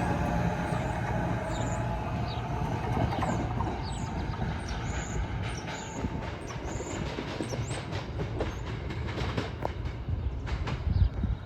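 New Jersey Transit Arrow III electric multiple-unit train pulling out of the station, its rumble slowly fading as it moves off, with wheels clicking over the rail joints in the second half.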